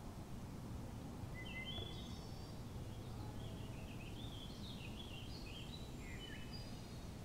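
A songbird singing a long, jumbled song of quick high notes that jump up and down in pitch, starting about a second in and ending near the end, over a low steady rumble of outdoor noise.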